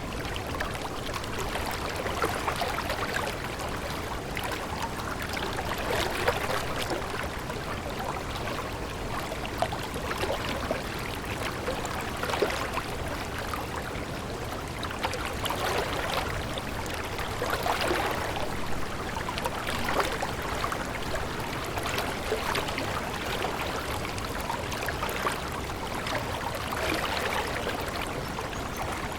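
Water running in a stream, a steady babbling with many small irregular splashes and gurgles.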